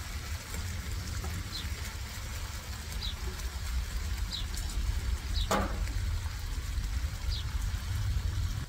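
Chicken tocino sizzling in a frying pan as it is turned with metal tongs, with a few short clicks of the tongs against the pan, the strongest about five and a half seconds in. A steady low rumble runs underneath.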